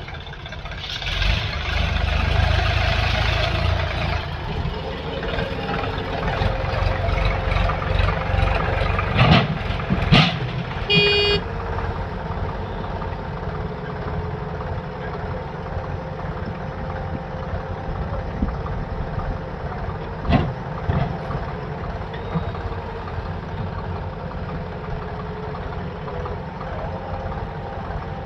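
Diesel engine of heavy machinery running, louder for the first few seconds. Loud knocks come near the middle, along with a brief high toot.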